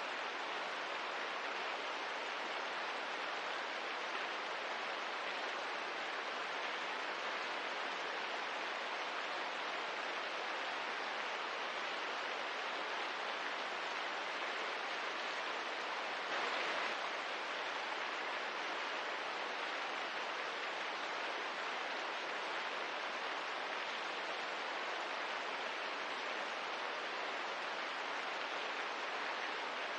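Steady rain falling, an even soft hiss with no distinct drops or crackles, swelling briefly a little louder about halfway through.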